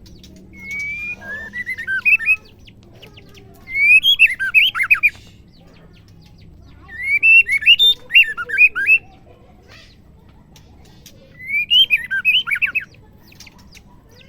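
Female white-rumped shama calling: four short phrases of quick, sharply rising-and-falling whistled notes, each lasting a second or two, separated by pauses of a couple of seconds.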